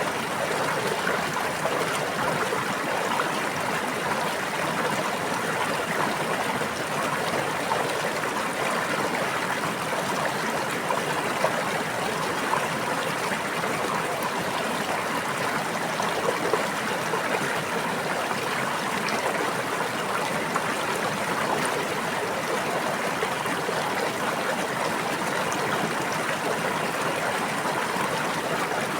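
Running water of a stream or brook, a steady babbling flow with small irregular splashes.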